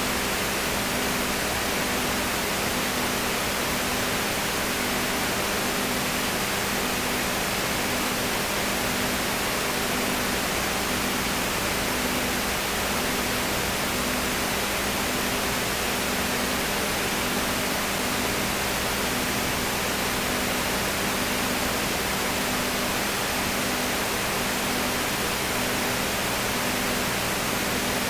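Steady hiss with a low hum underneath, one hum tone pulsing evenly a little slower than once a second.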